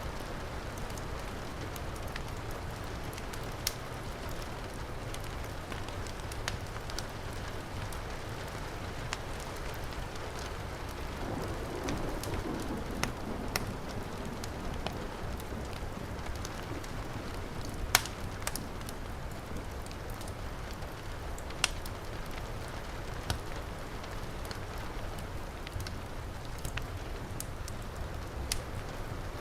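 Heavy rain falling steadily, mixed with a crackling wood fire that gives sharp pops now and then, the loudest about eighteen seconds in.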